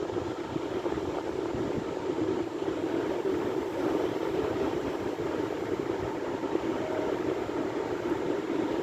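Sea waves: a steady rush of surf with no single break standing out.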